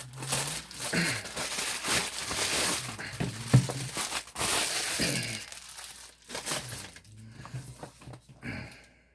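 Packaging of a Yu-Gi-Oh Legendary Collection Kaiba box being crinkled and torn open by hand, dense for about five seconds, then quieter handling rustles and clicks.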